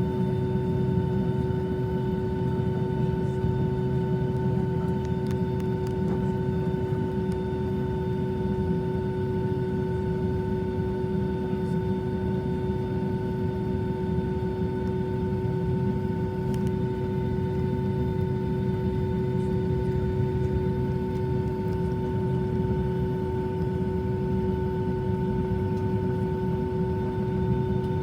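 Airplane engines running steadily: a constant low drone with several unchanging whining tones above it.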